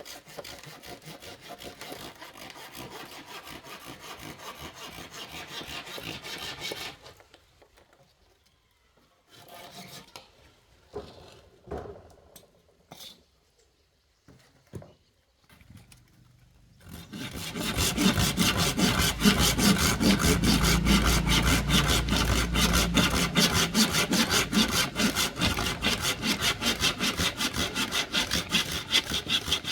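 A saw cutting through bamboo with quick back-and-forth strokes. It stops for several seconds with only a few scattered knocks, then starts again louder and faster a little over halfway through.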